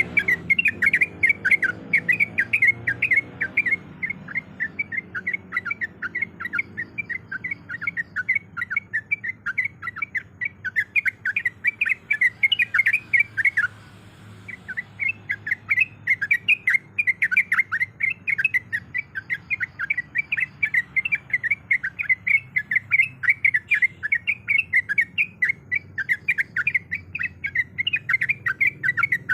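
Yellow-vented bulbul (trucuk) calling in a fast, continuous run of short chirping notes, several a second, with a brief break a little before halfway.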